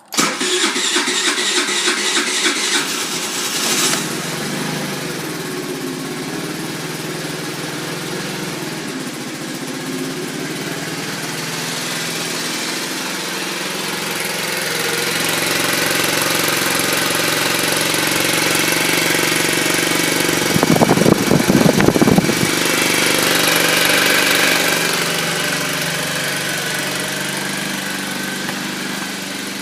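2013 TaoTao moped engine cold-starting: it catches at once, runs fast and busy for about four seconds, then settles into a steady idle, with a brief louder burst about twenty seconds in.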